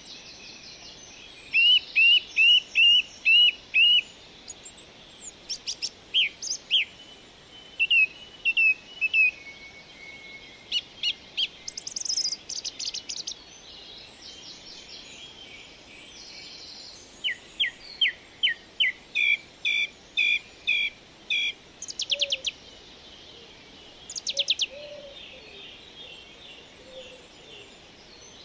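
Birds singing: runs of short, high chirps repeated about twice a second, with scattered single calls between the runs and a few fainter, lower calls near the end, over a steady hiss.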